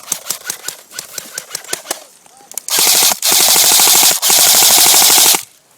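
Airsoft rifle fire: a scattered run of lighter single shots, then three loud full-auto bursts fired back to back close to the microphone, each a rapid, even rattle, ending shortly before the end.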